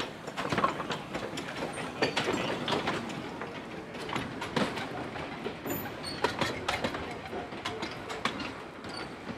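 Narrow-gauge passenger coaches hauled by a small steam locomotive rolling slowly past, their wheels clicking and knocking irregularly over the rail joints over a steady rumble.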